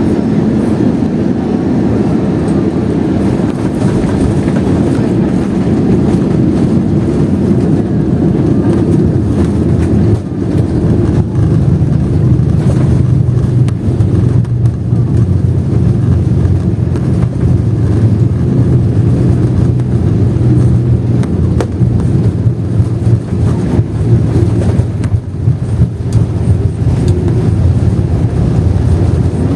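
Steady loud rumble of an Airbus A321 heard from inside the passenger cabin during landing: engine and airflow noise, with a deeper, stronger hum setting in about ten seconds in.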